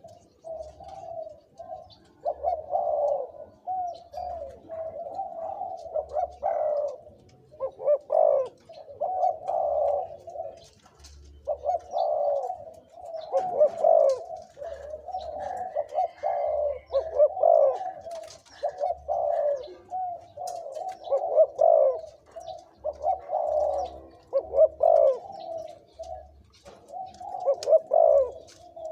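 Several caged male spotted doves (decoy birds) cooing over and over. Their repeated coo phrases overlap one another with only short breaks.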